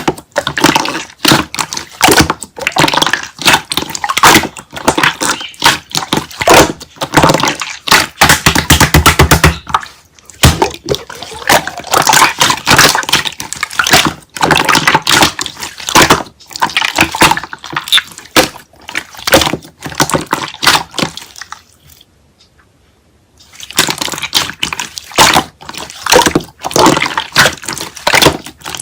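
Slime being squished, stretched and pressed by hand, giving dense wet crackling and popping in uneven bursts. It stops for about two seconds near the three-quarter mark, then starts again.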